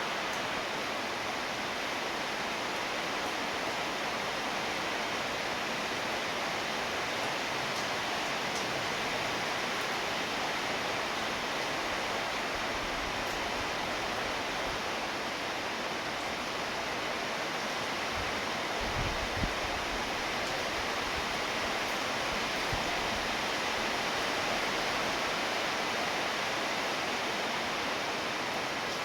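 Steady rainfall, an even continuous hiss of rain with no break, and a couple of brief low thumps about two-thirds of the way through.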